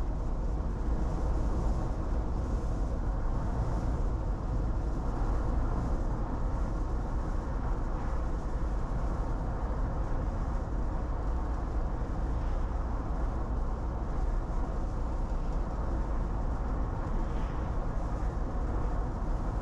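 Steady road and tyre noise with engine drone inside a moving car's cabin, a constant low rumble with no break.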